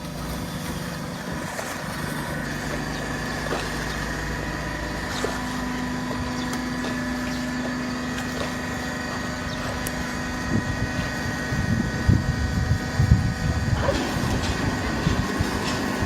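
Horizontal cardboard baler running, a steady machine hum with held tones, joined from around eleven seconds in by irregular low knocking and crunching.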